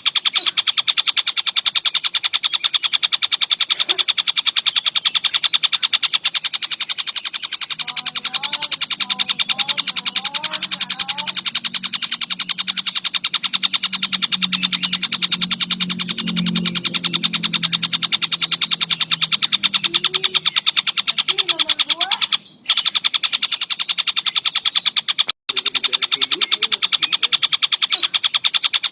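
Kingfisher (tengkek buto) calling in a continuous, very fast rattling chatter. It cuts out briefly twice near the end.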